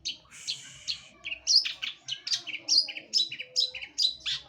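Long-tailed shrike (cendet) in full song: a rapid, varied string of short, sharp high notes, with a harsh scratchy stretch about half a second in.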